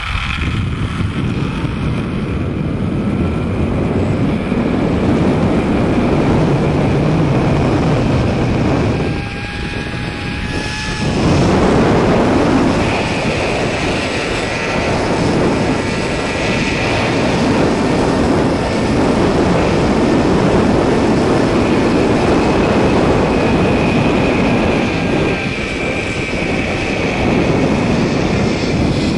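Zipline trolley pulleys running along the steel cable, a loud steady rushing whir mixed with wind, easing briefly about nine seconds in.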